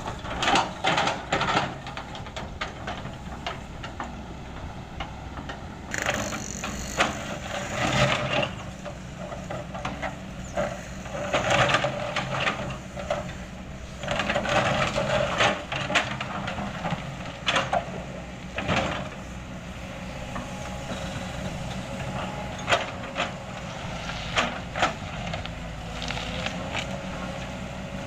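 A heavy construction machine's diesel engine running steadily, with irregular bouts of scraping, crunching and cracking as old asphalt is broken up and shifted. The crunching comes in clusters, heaviest in the first half.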